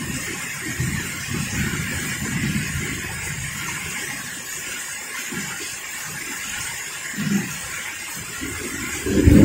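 Heavy rain falling steadily, with gusting wind buffeting the microphone in uneven low surges. A sudden loud low rumble begins right at the end.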